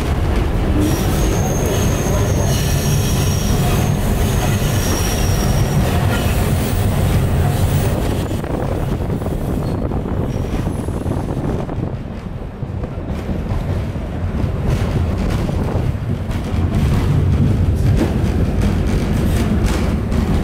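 Alishan Forest Railway narrow-gauge passenger coach running along the track, heard from inside the car: a steady rumble of wheels on rail with high-pitched wheel squeal for a few seconds near the start. The noise eases briefly around the middle and then comes back up.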